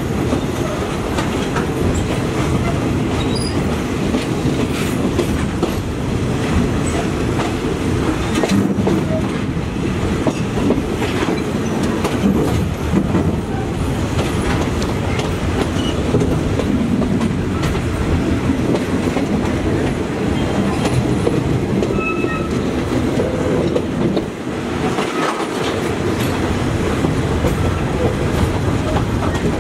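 Passenger train running on the rails, heard from an open carriage window: a steady low rumble of the wheels with clicking and clatter as they pass over rail joints and points.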